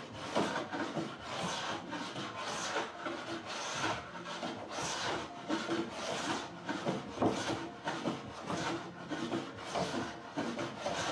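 Hand work on a wooden door: an abrasive or scraping tool rubbed along the wood in repeated back-and-forth strokes, a little under two strokes a second.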